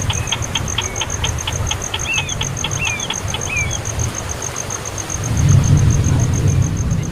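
Rapid high chirps of a baby bird, about five a second, turning into short sliding notes and stopping a few seconds in, over a steady fast high pulsing like an insect trill. A low rumble on the microphone is the loudest sound, swelling near the end.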